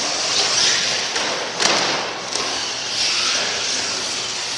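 Steady din of a monster truck show with one heavy thump about a second and a half in.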